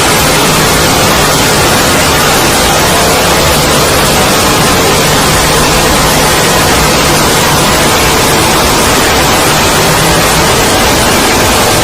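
Loud, steady static-like noise spread evenly across all pitches, with faint steady tones beneath it.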